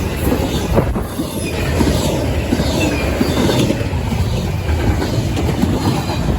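CSX intermodal freight train's cars rolling past at close range: a steady rumble of wheels on rail with rapid clicking and faint wheel squeal.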